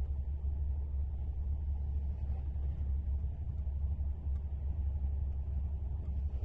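Steady low rumble of a train running along the track, with no distinct knocks or changes.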